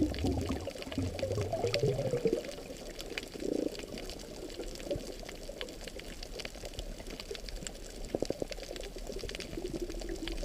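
Water gurgling and bubbling heard underwater while snorkeling, with many scattered faint clicks.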